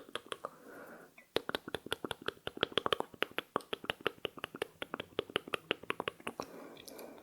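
Close-miked ASMR trigger clicks, fast and even at about nine a second, starting about a second in and stopping shortly before the end.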